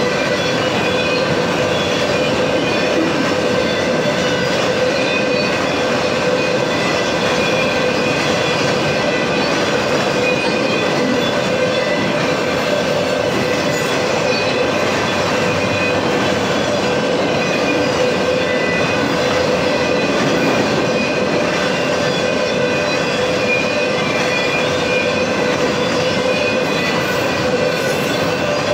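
Freight train of enclosed autorack cars rolling steadily past, its wheels rumbling and rattling on the rails with a steady whine over the noise.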